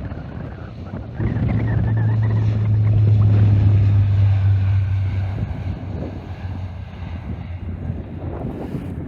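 Wind buffeting the microphone, loudest as a low rumble from about a second in until about five seconds, over the distant whine of jet aircraft engines.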